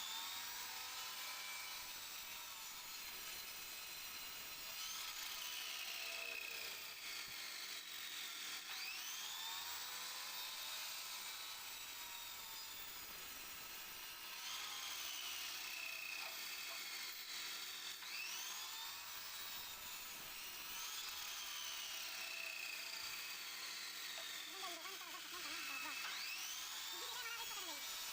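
Wood lathe turning, with a cutting tool working the spinning wood. A high whine sweeps sharply up and then slides slowly down, over and over every four or five seconds.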